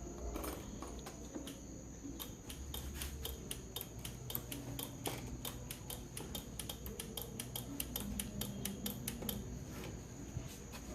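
Motor scooter making an irregular rapid clicking, about five clicks a second over a low rumble and a steady high whine: the strange noise the owner is showing.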